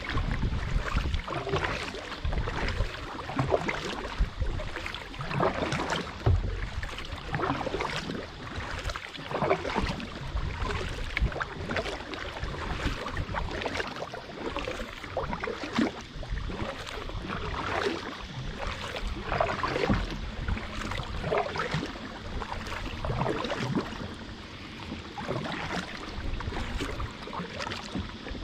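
Water splashing and lapping against a kayak, in irregular splashes every second or so over a low rumble.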